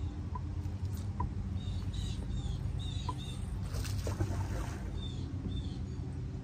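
A small bird chirping, a quick run of short falling chirps and then two more near the end, over a steady low rumble. A brief rushing noise comes about four seconds in.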